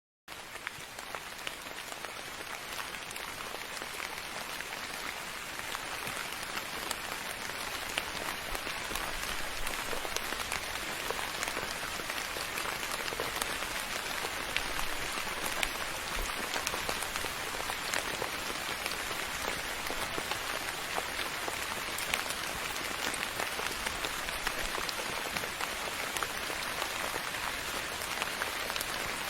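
Steady soft rain falling on a surface, a constant hiss dotted with fine droplet ticks, fading in at the start and rising a little over the first several seconds.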